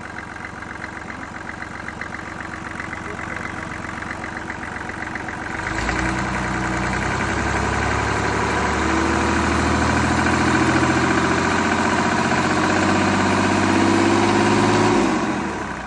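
Mitsubishi S6E six-cylinder diesel engine idling, then revved up about six seconds in and held at raised speed, climbing a little, before dropping back to idle near the end.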